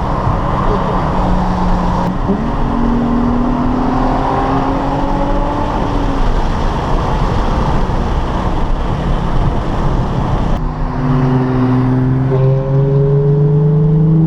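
Sports car engine at full throttle, its pitch climbing through the revs and dropping back at upshifts about two seconds in and near the end, over heavy road and wind noise. The sound changes abruptly about ten seconds in.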